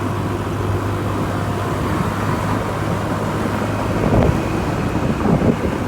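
Steady low engine drone with road and wind noise from a moving vehicle, with a few brief louder sounds about four and five seconds in.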